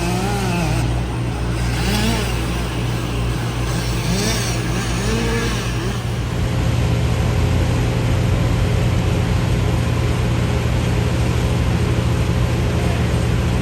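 A heavy engine running steadily with a deep drone. In the first half, a second motor revs up and down several times, about once a second.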